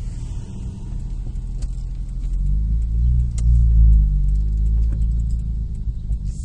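Nissan Maxima's VQ35DE 3.5-litre V6 running, its note climbing about halfway through and then settling back.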